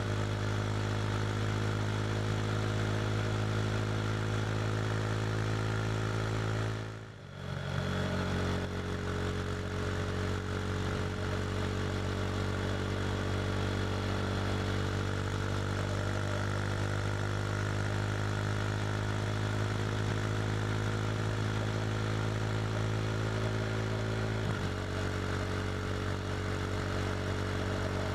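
KTM RC 390 single-cylinder engine with an SC Project slip-on exhaust running steadily at highway speed, with wind rush. About seven seconds in the engine sound cuts out briefly, then picks up again. Near the end its tone shifts slightly.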